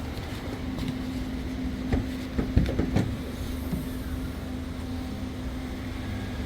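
Steady mechanical hum, with a few sharp knocks about two to three seconds in.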